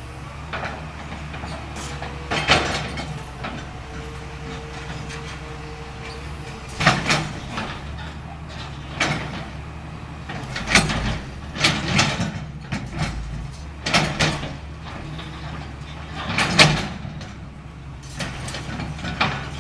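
CAT 325L excavator's diesel engine running steadily, with irregular crashes and clatter of building material being broken and dropped during demolition. There are about eight louder impacts, the loudest near the end.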